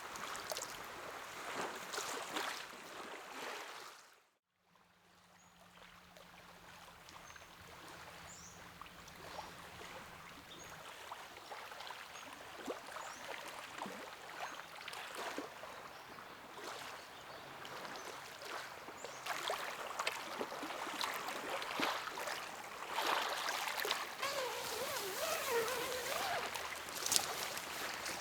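Small lake waves lapping and splashing against the shore, a steady wash full of little splashes. About four seconds in it drops briefly to silence, then builds back up.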